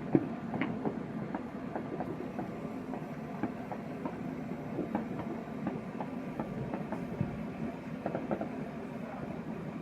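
Distant fireworks crackling: many small, irregular pops over a steady low hum, with one sharper pop just after the start.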